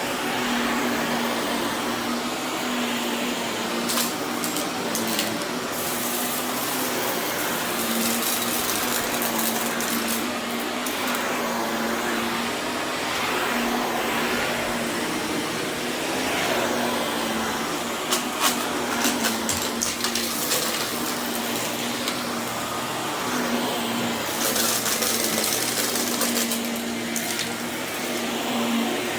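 Vacuum cleaner running steadily over berber carpet, its motor humming under a broad rush of suction. Several bursts of crackling and crunching come through as grit and debris left from moving are sucked up.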